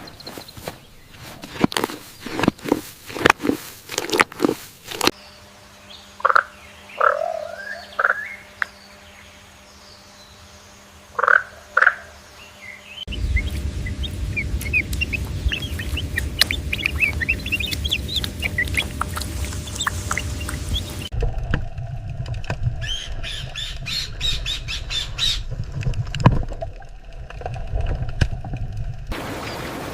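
Bird calls in several abruptly joined stretches: a run of sharp clicks, then a few separate short squawks, then many quick high chirps over a steady low rumbling noise.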